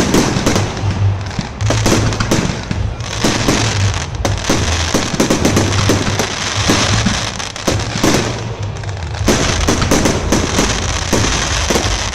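Fireworks display going off in rapid, overlapping succession: a continuous barrage of bangs and crackles with no break.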